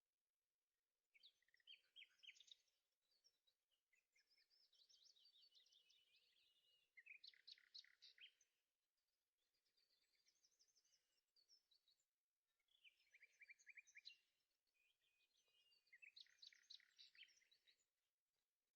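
Faint songbird singing: bursts of quick chirping trills and warbled phrases, each a second or two long and repeating every few seconds.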